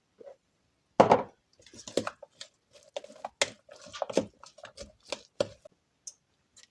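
A kitchen utensil knocking and scraping against a mixing bowl in short, irregular strokes, with one louder knock about a second in.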